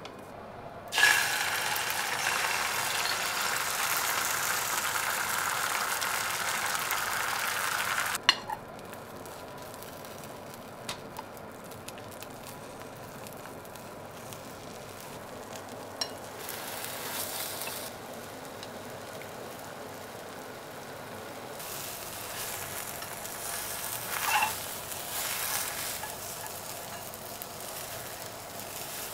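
Beaten egg sizzling in a hot oiled pan for tamagoyaki. A loud sizzle starts suddenly about a second in and drops to a faint sizzle after about eight seconds, with a few light clicks, then grows louder again near the end.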